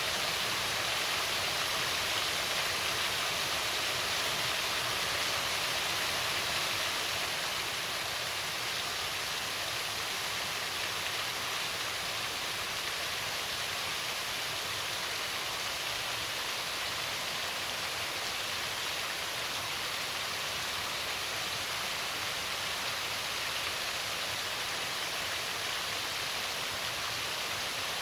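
Small waterfall pouring steadily over a rock ledge into a creek: an even rush of falling water with no breaks, slightly quieter after about seven seconds.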